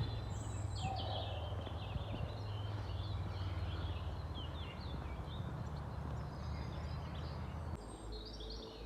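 Small birds chirping and twittering in short, repeated calls, over a steady low rumble that drops away near the end.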